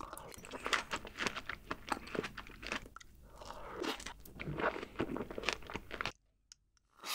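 Close-miked eating sounds: biting into and chewing a whole fresh strawberry and mouthfuls of whipped cream, a dense run of wet crunching clicks that stops about a second before the end.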